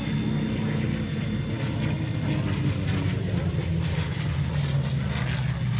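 Piston engine of a propeller airplane droning steadily in flight, its pitch dropping a little near the end.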